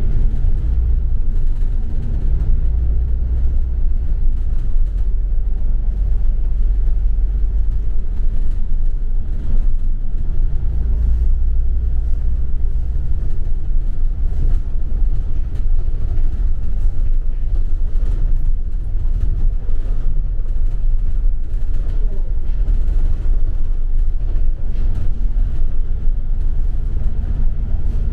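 A double-decker city bus on the move, heard from inside: a steady low rumble of engine and road noise.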